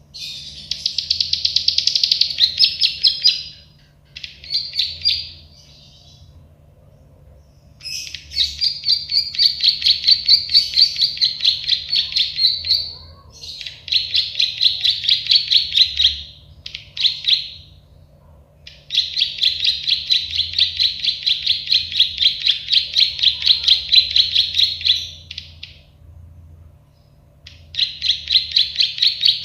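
Prenjak sawah (klik-klik bird), a prinia, singing in long phrases of fast repeated high chips, several notes a second, each phrase lasting a few seconds with short pauses between.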